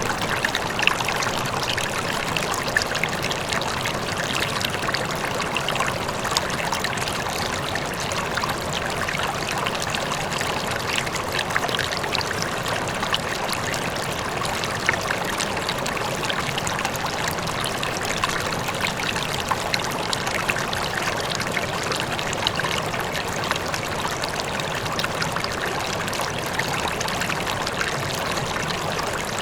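River water flowing steadily over stones, a continuous rush dense with small splashes and trickles, with a faint waterfall blended into it.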